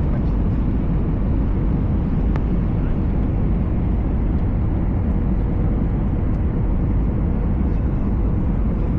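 Airbus A320 cabin noise in flight: a steady low rumble and rush of engines and airflow, heard from a window seat while descending towards landing, with a faint steady hum and an occasional light tick.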